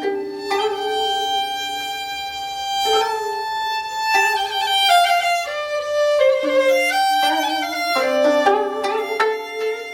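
A bowed string instrument plays long, sliding notes over plucked gayageum (Korean zither) strings. This is slow improvised music with sharp plucked attacks a few times.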